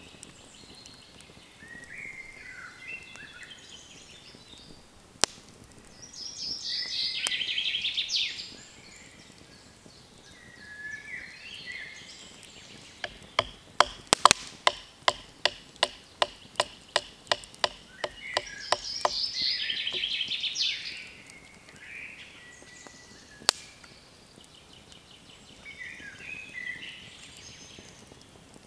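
A songbird singing short high phrases every few seconds. In the middle comes a quick run of about twenty sharp knocks, a little over three a second, loudest at first and then fading. Single sharp knocks sound a few seconds in and again near the end.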